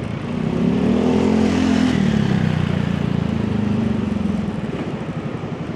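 Motorbike engine under way, picking up speed in the first couple of seconds, then holding and easing off near the end, with road and wind noise beneath.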